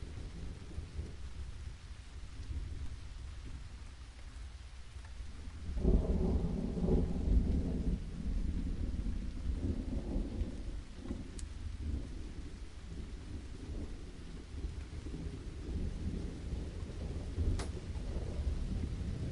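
Steady rain with thunder. A low rolling rumble swells suddenly about six seconds in and keeps rumbling unevenly under the rain through most of the rest.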